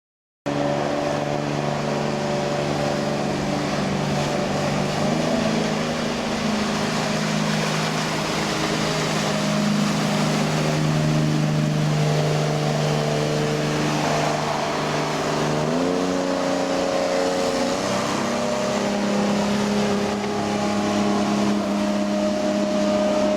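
MerCruiser 4.3 V6 engine of a jet boat running under way, with rushing water and wind noise. The engine note shifts up and down a few times as the throttle changes.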